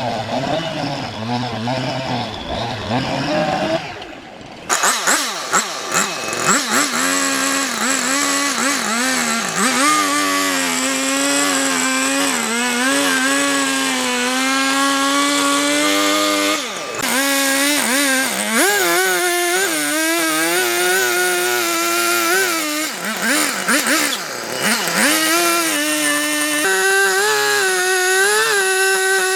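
A power tool's motor running loud and steady, its pitch dipping and rising as the load changes. A rougher engine-like sound stops about four seconds in, and a higher, smoother motor sound takes over.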